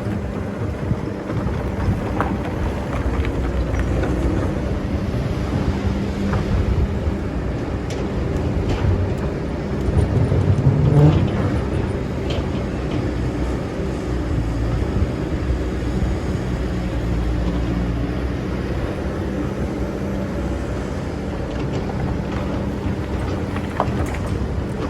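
Excavator's diesel engine running steadily under work, swelling briefly about ten to eleven seconds in, with a few light knocks.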